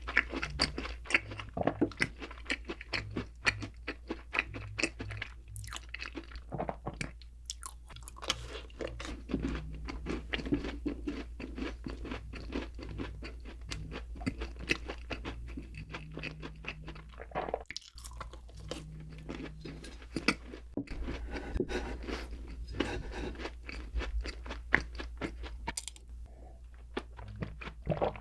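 Close-miked chewing of doughnuts: steady, irregular wet mouth clicks and crunching bites.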